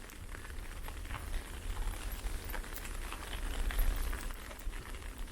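Ice pellets ticking irregularly on nearby surfaces, many small clicks in quick, uneven succession, over a low rumble of wind on the microphone.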